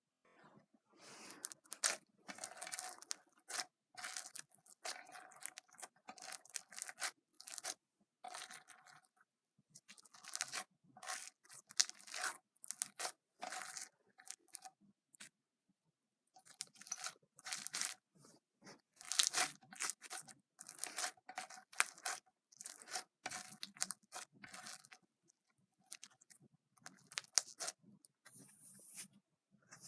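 Slime being squished and worked by hands: quick clicks and pops in irregular bursts with short gaps, including a longer pause about halfway through.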